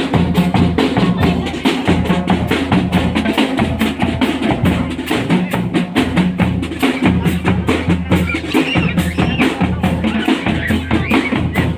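Drum-led percussion music with a fast, steady beat of sharp strikes over a repeating low bass pattern, as played by a parade band.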